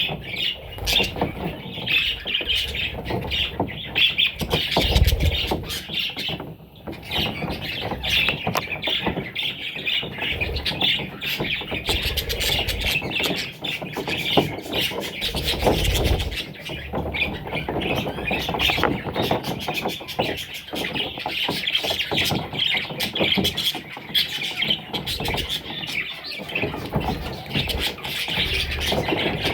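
Parrot chicks chirping and squawking continuously in dense, overlapping calls, with a few low thuds about five and sixteen seconds in.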